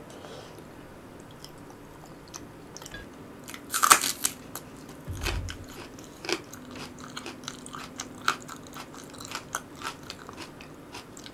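A person chewing a mouthful of Korean stir-fried potato side dish, with many small wet mouth clicks, a louder sharp burst about four seconds in and a brief low thump a second later.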